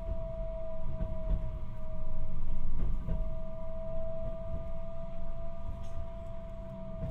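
Tokyu Setagaya Line 300 series light-rail car running, heard from inside: a steady whine over the low rumble of the wheels, with a few short clicks and a swell in loudness a couple of seconds in.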